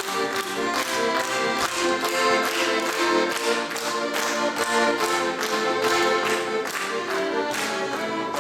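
Instrumental break of a lively Cossack folk song: accordion chords and melody over a steady, quick percussive beat.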